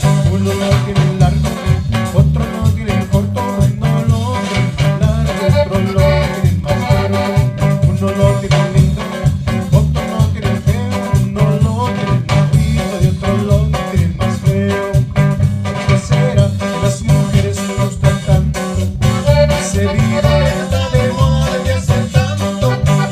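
Live band playing a cumbia, with a steady pulsing bass beat under the melody instruments.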